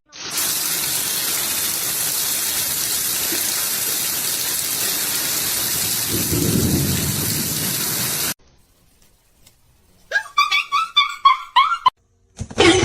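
A steady rushing noise like heavy rain that cuts off suddenly about eight seconds in, followed about two seconds later by a quick run of short, high squeaks.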